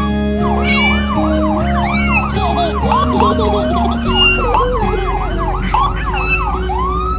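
Kittens mewing over and over, short high rising-and-falling cries about three a second, over steady background music.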